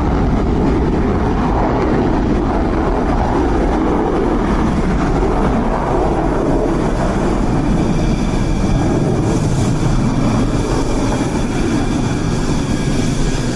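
Fighter jet engines running, a loud steady roar; about two-thirds of the way in, a high whine joins it.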